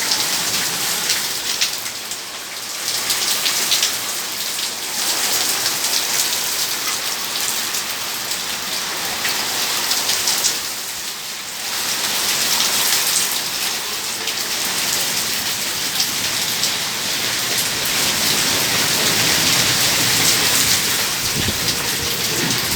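Heavy rain pouring down, a dense steady hiss of drops striking surfaces, easing briefly twice, about two and eleven seconds in.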